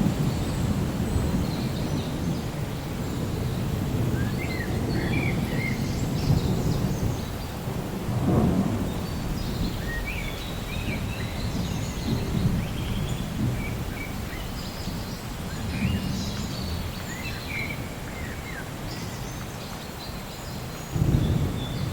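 Thunder rumbling over steady rain, the low rumble swelling at the start, about eight seconds in, and again just before the end. Small birds chirp on and off through the rain.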